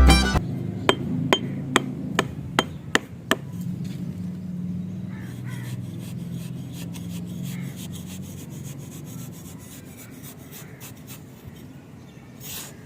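Craft work on a small wooden model: about seven sharp taps a little under half a second apart, then faint rubbing and scraping over a low steady hum, with a short swish near the end.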